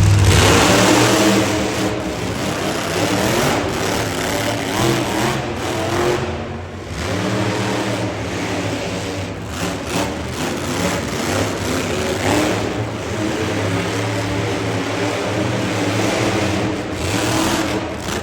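Monster truck engine revving hard, its pitch rising and falling, with a brief drop in level about six seconds in.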